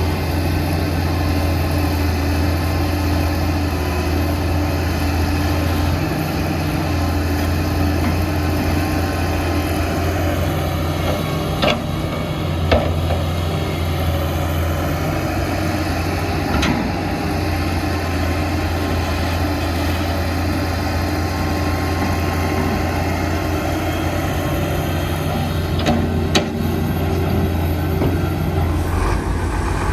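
Diesel engine of heavy earthmoving machinery running steadily, with a few short sharp knocks about twelve, seventeen and twenty-six seconds in.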